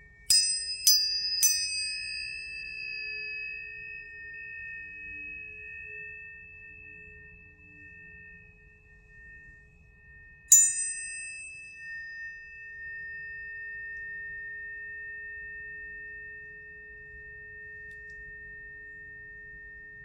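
Planetary tuning forks struck three times in quick succession and once more about halfway, each strike a sharp metallic tap followed by a long ringing tone. Two high tones keep ringing together, slowly fading, over a faint lower hum.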